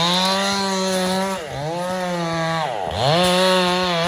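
Chainsaw running at high revs, cutting into a poplar trunk. The pitch sags briefly about a second and a half in, then drops and climbs back as the throttle is eased and opened again about three seconds in.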